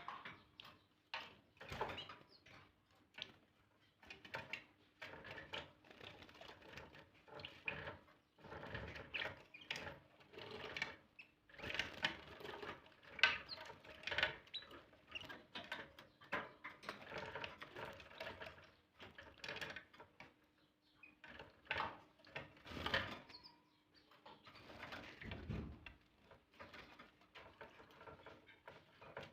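Canary bathing in a water dish, flicking and fluttering its wings in the water: irregular spells of small splashing and patter, fairly faint.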